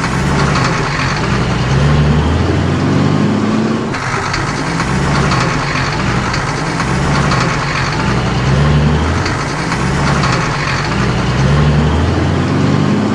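Truck engine sound effect running steadily, with a low hum that shifts in pitch in a repeating pattern.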